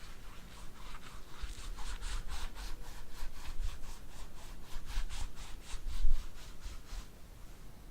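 Rhythmic rubbing strokes on a silicone ear model, about three to four a second, with a louder bump about six seconds in; the strokes stop about seven seconds in.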